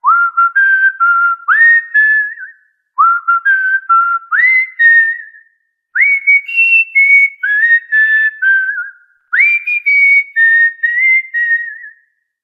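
Cockatiel whistling a short tune in four phrases, each starting with a quick upward swoop into clear held notes, with brief pauses between phrases.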